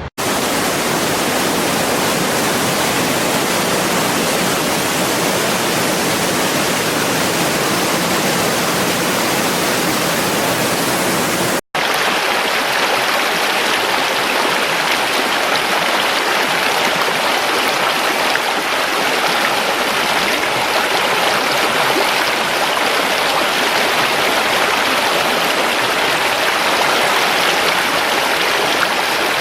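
Rushing water from a waterfall or fast stream, a loud, steady rush. It cuts out for an instant about a third of the way through, then a second recording of rushing water carries on with slightly less hiss.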